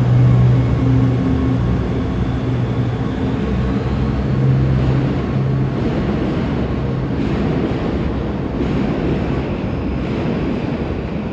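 JR Freight DD200 diesel-electric locomotive running light and pulling away slowly on part throttle: a steady low diesel engine note that fades about six seconds in, leaving a broad rolling rumble as the locomotive moves off.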